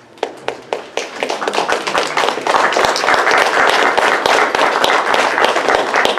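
A congregation applauding: a few scattered claps at first, building within a couple of seconds into full, steady applause.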